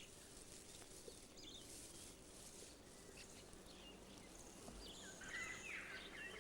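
Faint outdoor ambience with scattered short high bird chirps, the calls getting busier and louder from about five seconds in.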